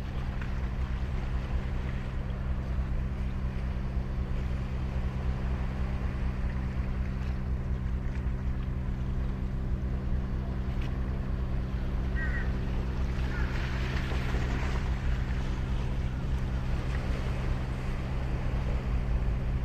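Waves washing onto the beach, with a steady low engine drone of unchanging pitch throughout; a brief high double chirp about twelve seconds in.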